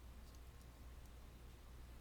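Near silence: steady low room hum with a couple of faint light ticks a fraction of a second in.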